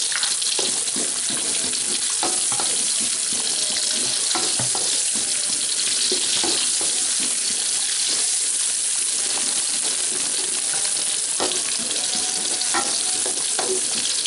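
Sliced shallots and chillies sizzling in hot oil in a wide metal wok, frying until lightly browned. The hiss is steady, broken by the scrape and knock of a spatula stirring them against the pan.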